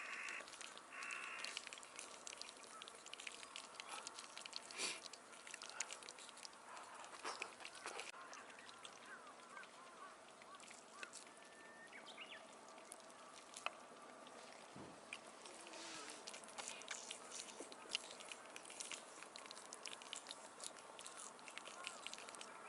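Faint outdoor campsite ambience: scattered small crackles and clicks throughout, with a few brief bird calls about a third of the way in.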